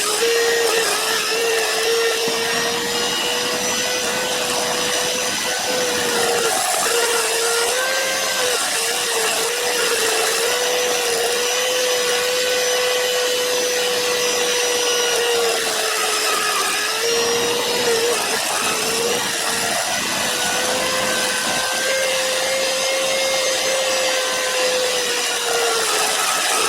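Harbor Freight micro pencil grinder running as a tool post grinder, grinding a lathe center: a steady high whine with a grinding hiss. The whine dips briefly in pitch several times as the wheel bites into the work.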